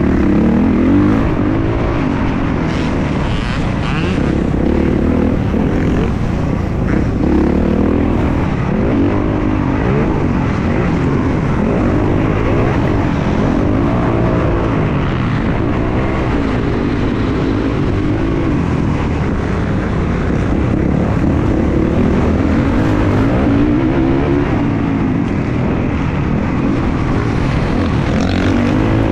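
Motocross dirt bike engines revving, the pitch climbing and dropping over and over as the riders work the throttle and shift around the track.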